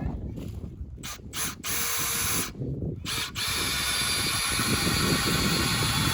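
Power drill driving screws: a few short runs of the motor, then one longer steady run of about three seconds.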